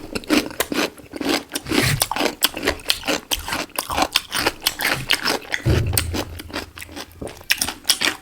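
Close-miked biting and chewing of black chicken pieces: wet mouth smacks, crunching and small irregular clicks, with a dull low thump about six seconds in.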